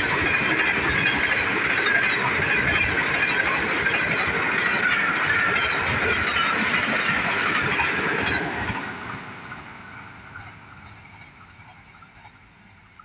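Express passenger train coaches rushing past at over 110 km/h: a loud rush of wind with rapid wheel clatter over the rails. About eight and a half seconds in, the last coach passes and the sound fades quickly as the train recedes.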